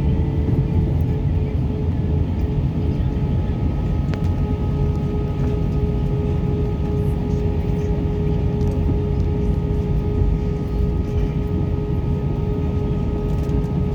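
Steady airliner cabin noise: a low rumble with a constant, unchanging hum of held tones, from the plane's engines or air systems while it waits for takeoff.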